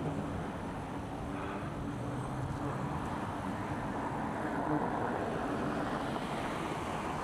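Steady vehicle traffic noise on a busy street.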